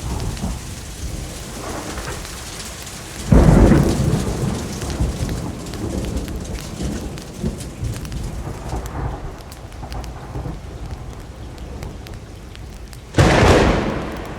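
Steady rain with two thunderclaps, one about three seconds in and one near the end, each coming in suddenly and rumbling away over a second or two.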